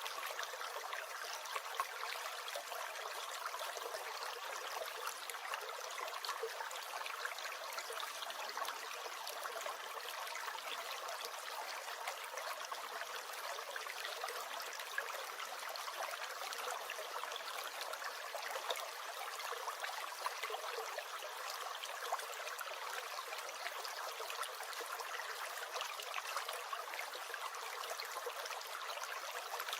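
Small stream gurgling and trickling steadily, an even rush of water with fine crackles and no deep rumble.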